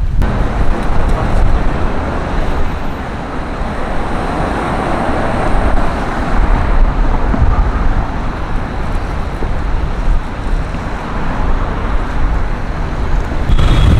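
Road traffic on a city street: a steady rush of passing vehicles, engines and tyres, swelling a little in the middle, with low wind rumble on the microphone.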